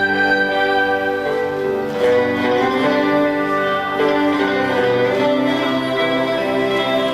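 Live instrumental ensemble music, held notes and chords that change about every two seconds.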